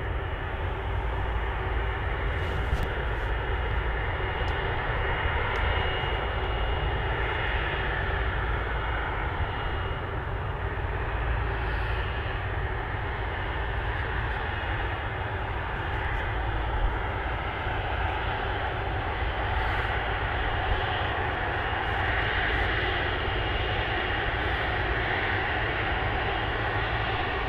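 Jet airliner engines running, a steady rumble and hiss with a faint high whine held throughout.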